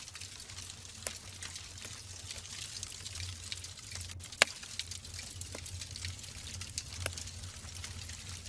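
Wood logs burning in a fireplace: a steady hiss and low rumble of flames with frequent sharp crackles and pops. The loudest pop comes about four and a half seconds in.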